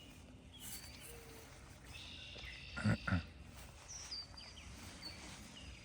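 A chicken gives two short clucks about three seconds in, over faint high chirps of small wild birds.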